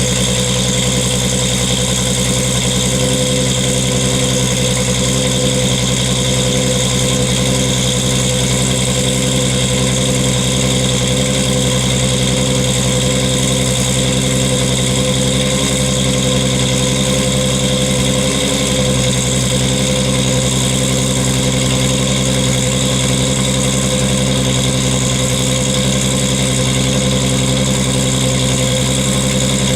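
1998 Toyota Supra Turbo's 2JZ-GTE straight-six idling steadily after a cold start, heard through an HKS titanium racing exhaust with its silencer fitted.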